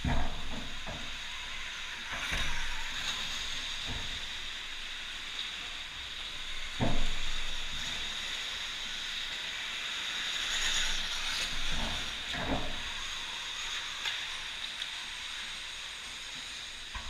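Electric motocross bike being ridden on an indoor dirt track: a steady hiss with several sudden low thumps, the loudest about seven seconds in.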